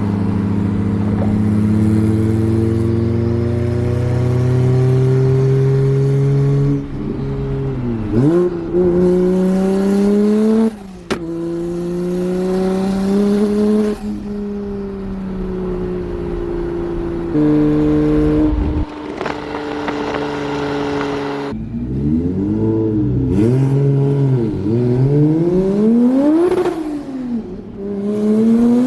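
BMW 335i's N54 inline-six, converted to a single turbo, accelerating hard: the revs climb steadily through each gear and drop suddenly at the gear changes, then rise and fall quickly several times near the end. The owner says it is running really well on fresh spark plugs and fuel.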